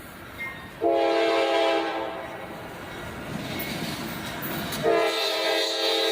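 Locomotive multi-chime air horn sounding a chord of several notes: one long blast starting about a second in that fades after a second or so, then a second blast starting near the end and held on. A train's rumble runs between the blasts.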